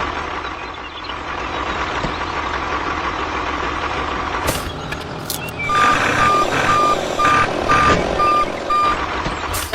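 Vehicle engine running steadily, then a reversing alarm beeping about twice a second, seven times, over the engine in the second half. A few sharp clicks come just before the beeping starts.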